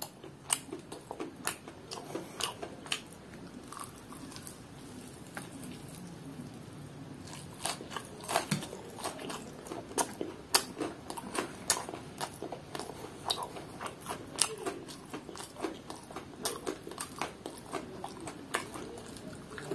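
A person biting into and chewing a crispy fried chicken drumstick. It gives many small, sharp crunches and mouth sounds.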